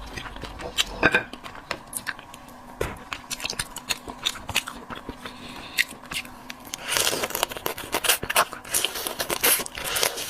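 Crab being eaten close to the microphone: repeated sharp cracks and snaps of shell being broken apart, with biting and chewing, and a denser stretch of scraping and crunching about seven seconds in.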